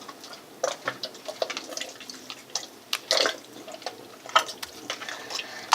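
Homemade slime being handled and pulled out of its container: scattered wet squelches and small clicks, with a longer squelch about three seconds in.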